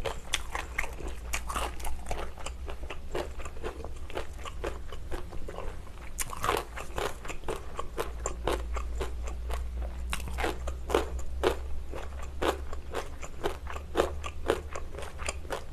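Kimchi being bitten and chewed: a long, uneven run of crisp crunches, several a second.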